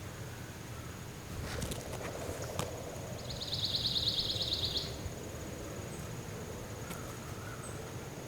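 Outdoor woodland ambience with a steady low rumble and a few faint clicks. About three seconds in, an insect gives a high, rapidly pulsed buzzing trill lasting about a second and a half.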